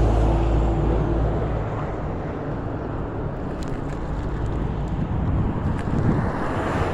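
Steady rumble and hiss of riding a Bird rental electric scooter slowly along a sidewalk, held to about 5 mph. A deep rumble fades over the first second or two, and there are a few faint clicks.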